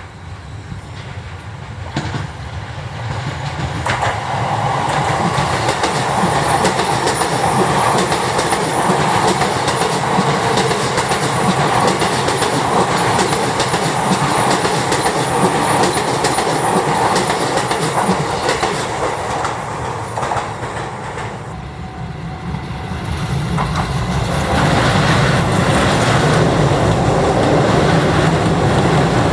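Electric commuter train running past with its wheels clattering over rail joints. The sound builds over the first few seconds, dips about twenty seconds in, then a second train's running rises again near the end.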